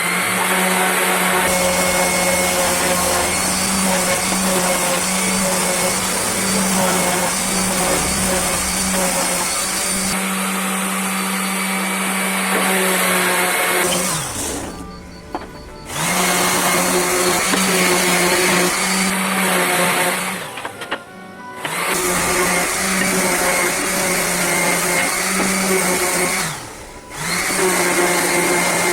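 Electric power tool motor running at a steady speed, shutting off and winding down three times, each time starting up again after a second or two.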